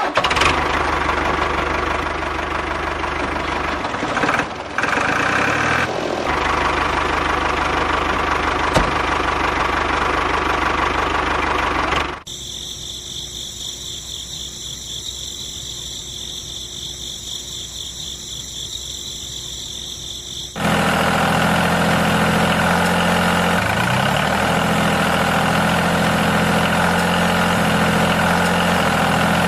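A motor runs steadily, changing abruptly twice: first a dense running noise, then from about twelve seconds in a quieter high-pitched whine, then from about twenty seconds a louder, even hum.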